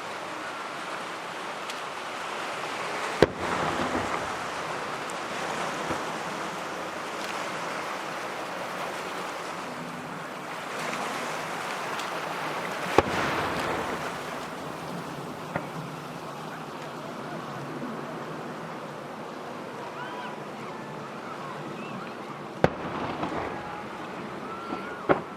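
Fireworks shells bursting: four sharp bangs spread several seconds apart, with a few fainter pops between, over a steady wash of background noise.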